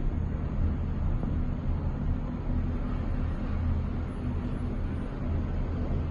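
Steady low rumble inside a Disney Skyliner gondola cabin as it travels along its cable.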